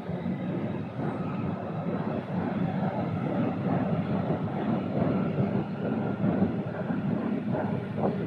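A train passing under a footbridge: a steady rumble of wheels and running gear with a faint whine above it.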